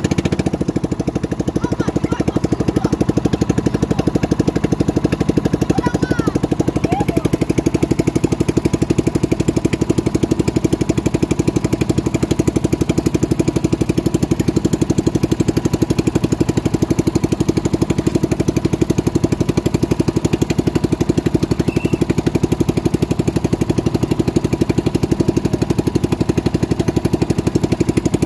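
Boat engine running steadily close by, a fast even chugging pulse that holds at one speed.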